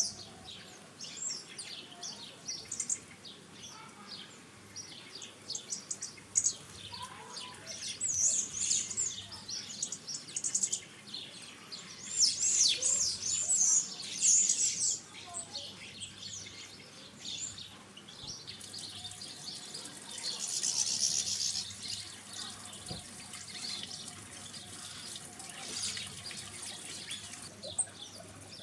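Small garden birds calling and twittering, many short high chirps overlapping throughout, busiest in stretches around the middle and again about two-thirds of the way through.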